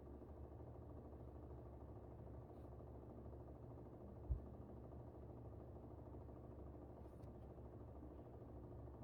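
Air conditioner running with a steady low hum. A single short, low thump about four seconds in.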